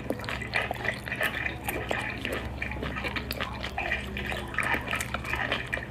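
Wet close-up eating sounds: irregular sticky clicks, smacks and squelches of a mouth chewing raw live squid, mukbang-style. A low steady hum sits underneath.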